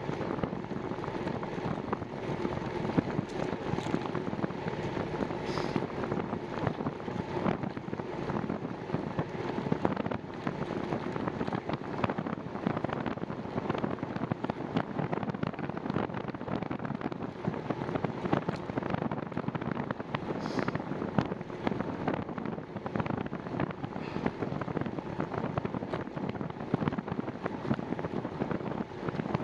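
Wind buffeting the microphone and the running noise of a bicycle being ridden, with a steady crackle of small clicks and rattles.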